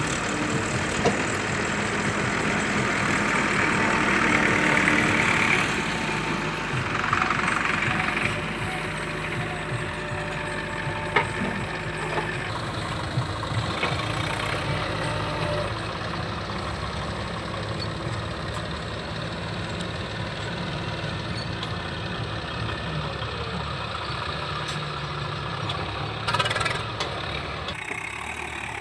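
Diesel engines of a JCB backhoe loader and a tractor running at a work site. A louder stretch of rushing noise comes in the first several seconds, and there are a few short knocks.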